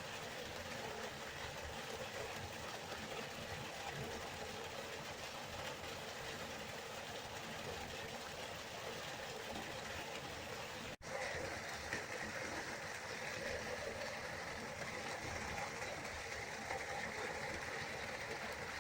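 Waterfall: steady rushing of falling water. A momentary dropout about eleven seconds in, after which the rushing resumes with a slightly different character.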